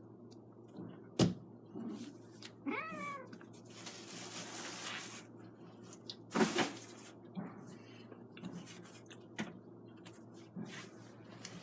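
Kittens scuffling: a few sharp knocks, one short falling meow about three seconds in, and a stretch of airy noise just after it.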